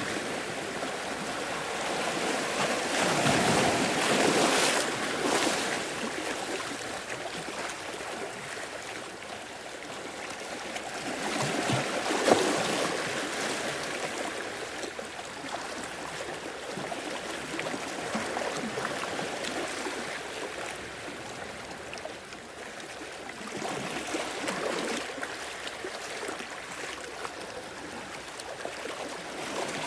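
Sea waves breaking and washing in at the shore, in slow surges of rising and falling wash, with a louder wave about twelve seconds in.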